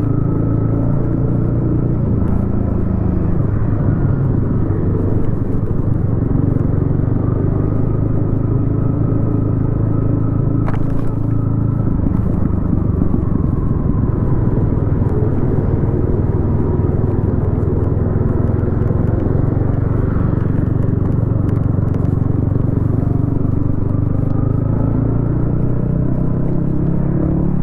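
Yamaha XSR155's single-cylinder engine running through a DIY exhaust under way, its pitch rising and falling with the throttle. A brief click about ten seconds in.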